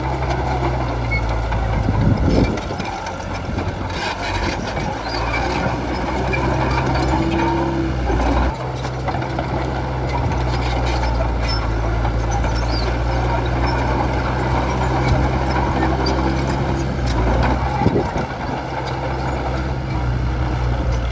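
Crawler bulldozer's diesel engine running under load while pushing soil, with a steady low drone and a rough grinding noise over it. The engine note drops briefly about two and a half seconds in, again about eight and a half seconds in, and once more near the end.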